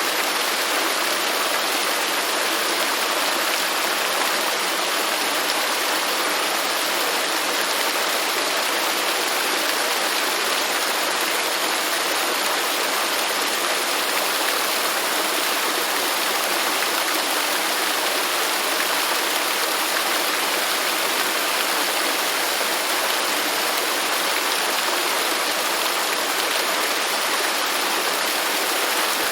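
Waterfall: falling water rushing and splashing in a steady, even roar of white noise with no changes.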